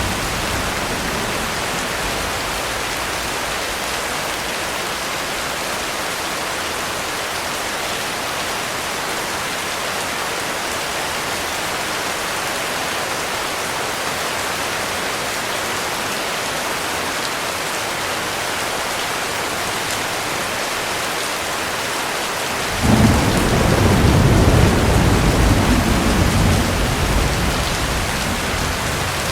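Heavy rain falling steadily, with a thunderclap breaking in suddenly near the end as a deep rumble that slowly fades.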